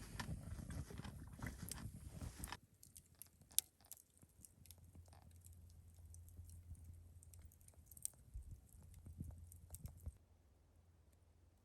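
Crunching for about the first two and a half seconds, then quieter scattered clicks and taps with one sharp click, the clicks stopping near the end.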